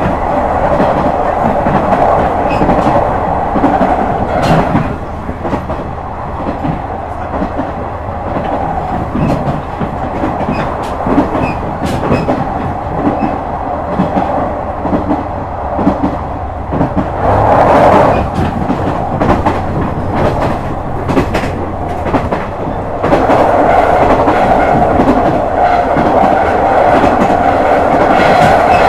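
Onboard running sound of a KiHa 126 series diesel railcar: the diesel engine hums steadily under the clatter of wheels over rail joints. The running noise is heavier for the first few seconds, swells briefly a little past halfway and grows heavy again from about three-quarters through.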